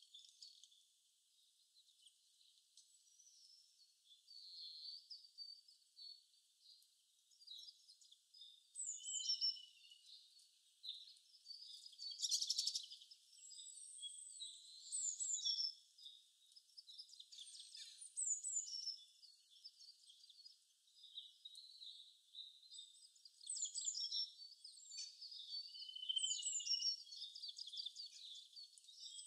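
Birds chirping and singing, a run of short high chirps and whistled phrases, with a brief buzzy trill about twelve seconds in. The sound is thin and high, with nothing low in it.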